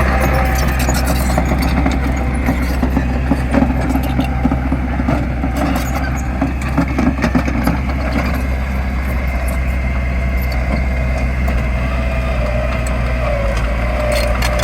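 Diesel engine of heavy earthmoving machinery running steadily, with scattered clanks and rattles.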